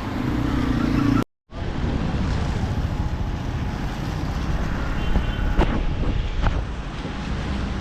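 Road traffic going past, cars and heavier vehicles, with wind buffeting the microphone. The sound cuts out completely for a moment just over a second in.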